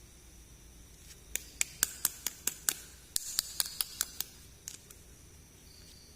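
A quick run of sharp clicks, about five a second for nearly three seconds, from small toy packaging or plastic pieces being handled up close.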